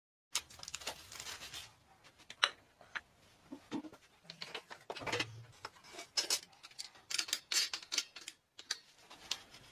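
Hand tools and metal engine parts being handled on a bench: irregular clicks, taps and short scrapes, with one sharp knock about two and a half seconds in.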